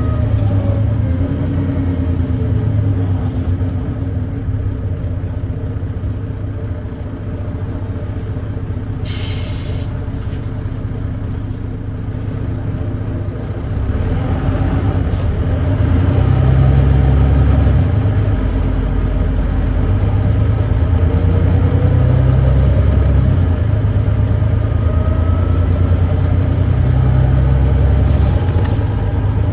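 Volvo B9TL bus's Volvo D9B diesel engine running with an exhaust leak, idling and coasting quieter before a short burst of air hiss about nine seconds in. From about halfway the engine pulls harder and louder, rising in pitch through the gears.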